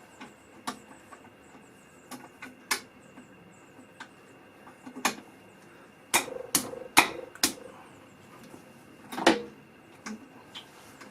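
Irregular metal clicks and clanks of a socket and hand tools being handled and fitted, with a cluster of quick knocks about two-thirds of the way through and one louder clank near the end.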